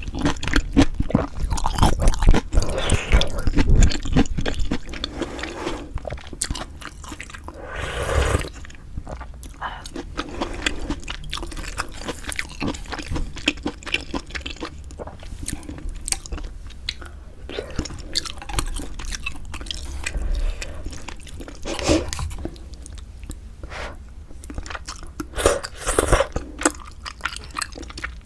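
Close-miked eating of pork-bone hangover soup with glass noodles: wet chewing, biting and slurping of the noodles. The chewing is densest and loudest in the first few seconds, with a few short louder bursts later on.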